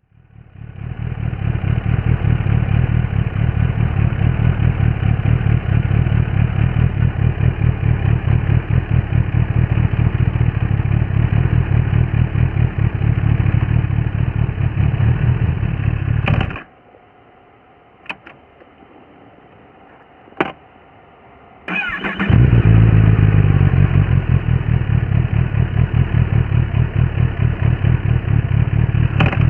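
Kawasaki ZX-10R SE inline-four engine running steadily with a rhythmic exhaust pulse, then cutting off abruptly a little past halfway. After a few seconds of quiet with a couple of clicks, it is cranked and fires up again, running on loudly.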